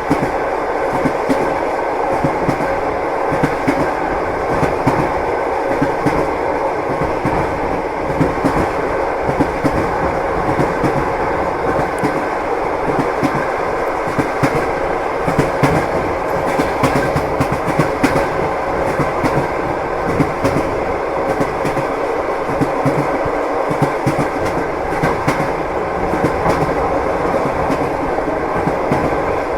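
Passenger train wheels clacking over rail joints at a steady cruising speed, with the continuous rumble of the carriage running along the track.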